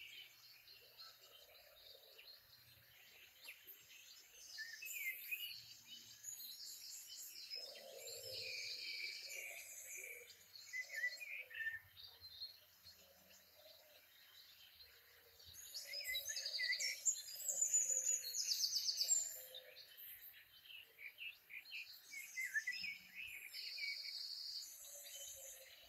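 Several songbirds chirping and trilling together, short chirps mixed with fast rattling trills, busiest a little past the middle.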